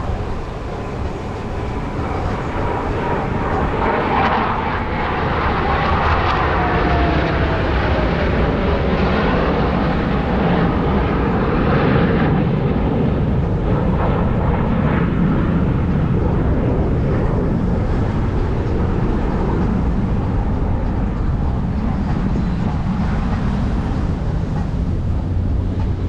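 Two Blue Angels F/A-18 jets flying a low pass in gear-down landing configuration. Loud, steady jet engine noise runs throughout, with a whine that falls in pitch over the first several seconds as the jets go by.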